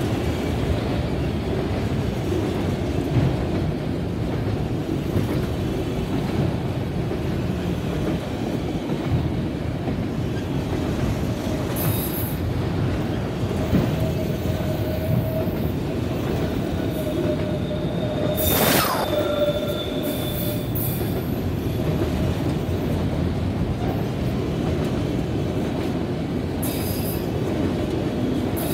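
Autorack freight cars rolling past at close range: a steady rumble of steel wheels on rail. Thin wheel squeals come and go through the middle, with a single sharp bang about two-thirds of the way through.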